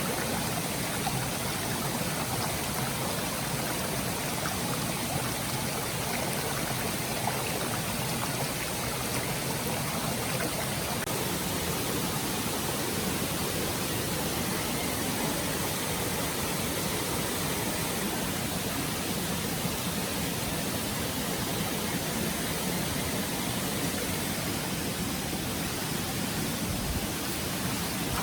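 Stream water rushing and burbling steadily over rocks.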